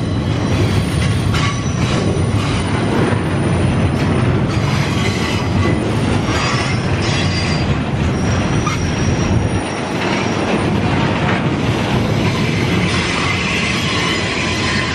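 CSX rail train of flatcars carrying long steel rail rolling past at close range: a steady rumble of wheels on the track with thin wheel squeals and scattered clanks.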